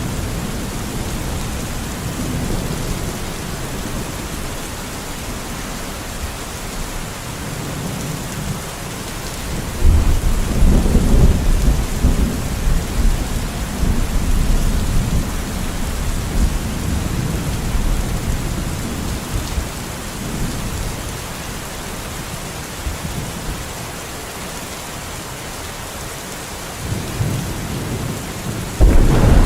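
Steady rain, with thunder rumbling twice: a deep roll about a third of the way in that fades out over about ten seconds, and another building near the end to the loudest point.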